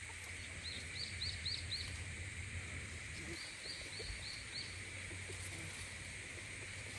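A small bird chirps two quick series of about five short rising-and-falling notes, a few seconds apart, over a steady high background hum and a low rumble.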